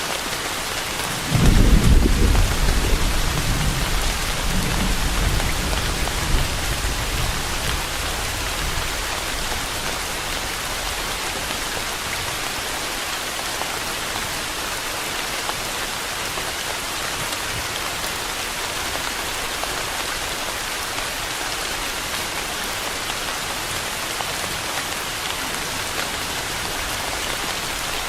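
Steady heavy rain, with a thunderclap about a second in whose low rumble rolls on and fades over several seconds.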